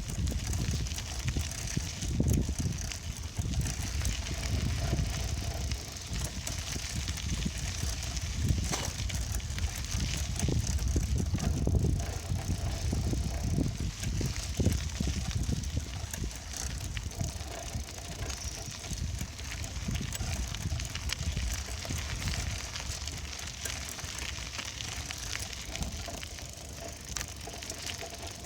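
Riding noise from a bicycle on the move: wind buffets the microphone in an uneven low rumble that swells and eases, over a steady hiss from the tyres with scattered small rattles and clicks.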